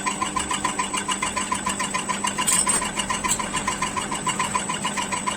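Diesel fuel-pump test bench running a rebuilt JCB Delphi injection pump: a steady mechanical hum with an even ticking of about seven to eight beats a second.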